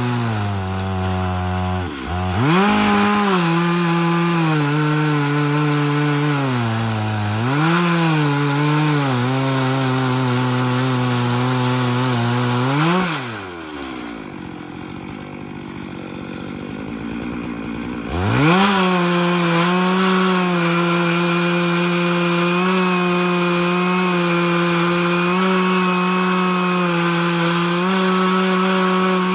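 Chainsaw cutting lengthwise through live oak in a chainsaw mill, running hard under load with its pitch sagging and recovering a few times. About 13 seconds in it drops back toward idle and is quieter, then it is throttled up again about 18 seconds in and runs steadily at high revs.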